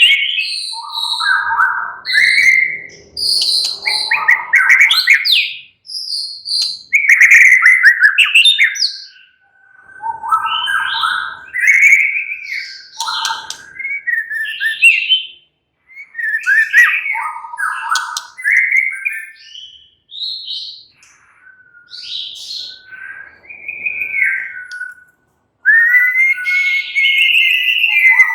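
White-rumped shama (murai batu) singing in loud, varied phrases of rich whistles and quick chirps, each a few seconds long with short pauses between. A held steady whistle comes near the end.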